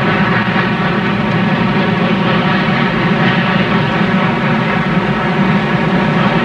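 Steady, loud rumble of a moving train, with a constant hum running through it and no separate beats.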